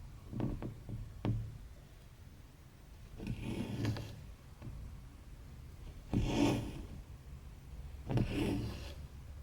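Embroidery floss being drawn through cross-stitch fabric: a rubbing swish three times, every two to three seconds, after a few light ticks in the first second or so.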